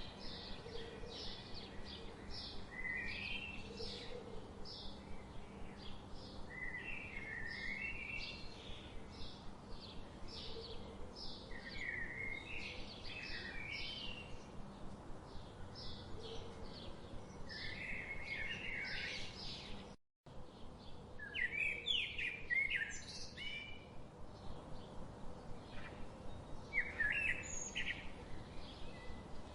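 Songbirds chirping and calling in quick, repeated short notes and trills, several overlapping. About two thirds of the way through, the sound cuts out completely for a split second, then the chirping resumes.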